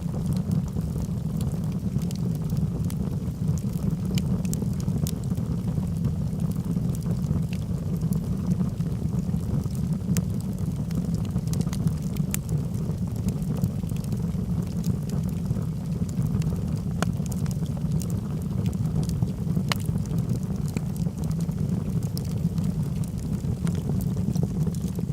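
Logs burning in a fireplace: a steady low rumble of flames with scattered sharp crackles and pops at irregular moments.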